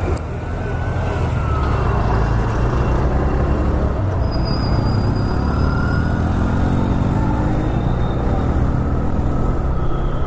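TVS Raider 125's single-cylinder engine and exhaust running under way, its pitch climbing in the middle as the bike accelerates.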